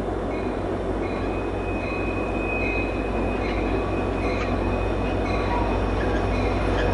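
Freight train rolling past, a dense low rumble with high-pitched wheel squeal that comes and goes, growing slowly louder.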